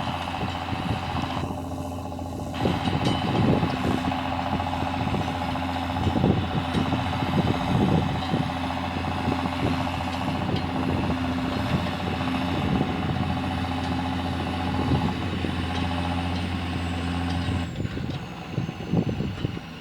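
John Deere tractor engine running steadily, with frequent knocks and clanks over it. Near the end the steady engine note drops away and a faint high whine falls in pitch.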